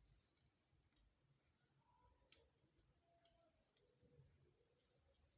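Near silence with faint scattered clicks of small parts being handled: a new carbon brush and its spring being seated in the brush holder of a washing machine motor.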